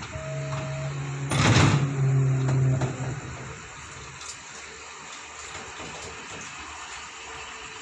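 Sounds of a passenger express train at a station: a low steady hum for the first few seconds, with a short loud rushing burst about a second and a half in. The hum fades out after about three and a half seconds, leaving a quieter steady background noise.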